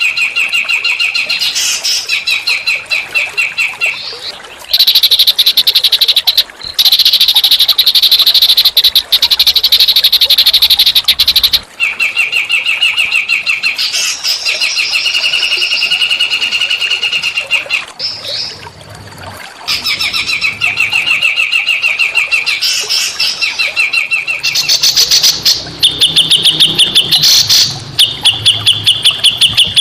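Small songbird singing rapid, buzzy high-pitched trills in phrases a few seconds long, with brief breaks between them: a masteran recording of small-bird song.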